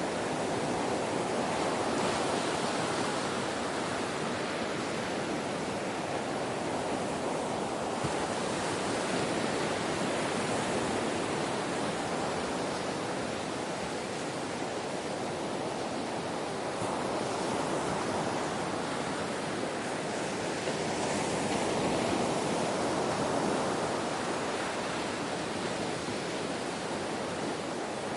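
Gentle ocean waves washing ashore: a continuous hiss of surf that swells and eases slowly, rising about two seconds in and again past the twenty-second mark.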